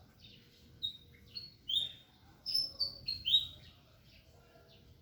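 Small birds chirping: a quick run of short, high chirps about a second in, some sliding down in pitch, loudest near the middle, over faint twittering throughout.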